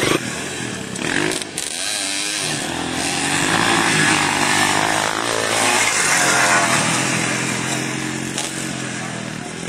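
Off-road motorcycle engines revving, the pitch rising and falling several times as the throttle is worked.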